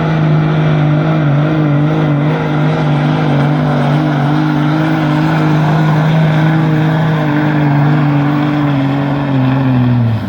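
Pulling truck's engine held at high revs under heavy load as it drags a weighted pull sled, its note nearly steady with slight wavers. Near the end the note sags and the engine cuts back sharply as the pull ends.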